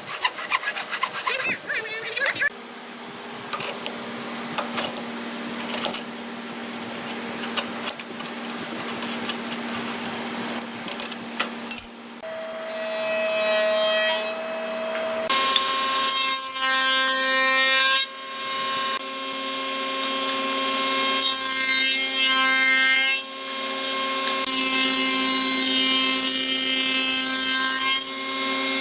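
Electric power tool running and working into hardwood, with a steady motor tone that changes pitch in steps several times. Sharp clicks and knocks come in the first couple of seconds.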